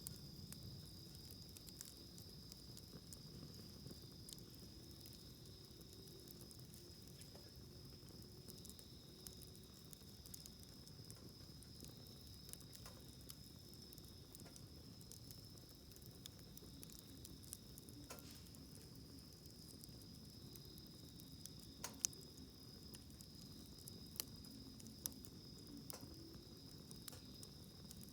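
Wood campfire crackling quietly, with scattered pops, the sharpest about 22 seconds in. A steady high insect trill at two pitches carries on underneath.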